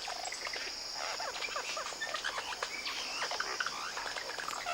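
Forest ambience: insects droning steadily in a high band, with many short bird chirps and whistles scattered over it.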